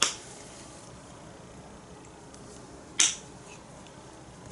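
Sharp plastic clicks of an acrylic paint bottle's flip-top cap: a soft one at the start and a louder single snap about three seconds in.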